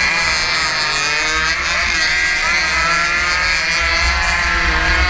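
115cc race motorcycle engine running hard, heard from on board the bike, its pitch dipping and climbing again several times through the corners, with wind buffeting the microphone.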